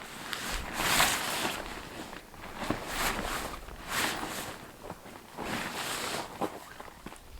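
Footsteps and rustling while gear is handled during tent pitching, coming as uneven swishing swells roughly a second apart.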